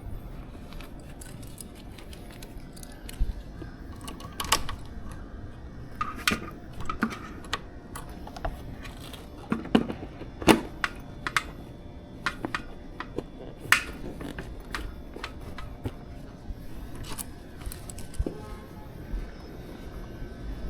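Irregular clicks and knocks of small objects being handled, with the loudest knocks about ten seconds in, over a low steady rumble.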